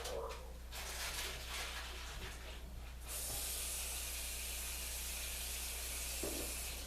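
A steady high hiss starts abruptly about three seconds in and cuts off just before the end, over a constant low hum.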